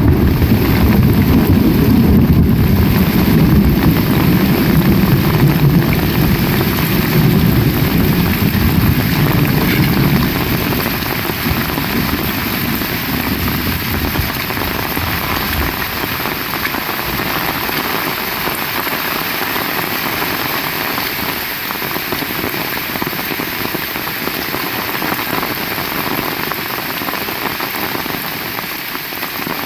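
Heavy rain falling steadily. A low rumble of thunder runs through the first half and dies away.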